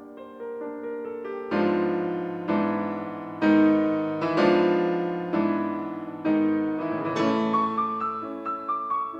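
Piano music: soft single notes, then loud chords struck about once a second and left to ring and fade, then a lighter run of notes near the end.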